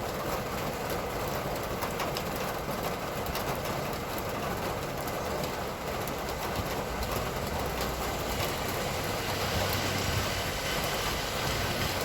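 Steady heavy rain falling, with a heavy road vehicle's engine rumbling past in the second half.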